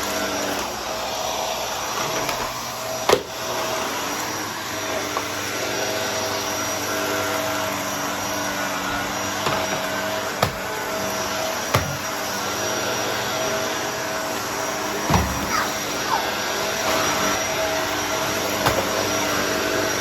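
Upright vacuum cleaner with a brushroll running steadily, its motor a constant pitched hum. Now and then a sharp click or knock cuts through, five in all.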